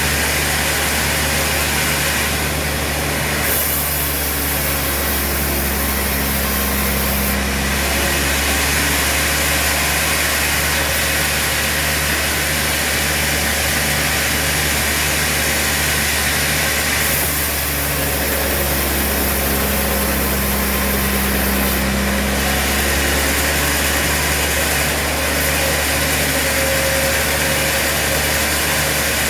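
Sawmill machinery running with a steady engine drone and a regular pulsing underneath. Twice, from about three seconds in and again from about seventeen seconds in, a hissier stretch rises over it for several seconds.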